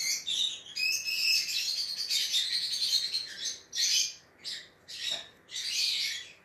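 A small bird chirping and chattering, high-pitched and warbling, with short breaks.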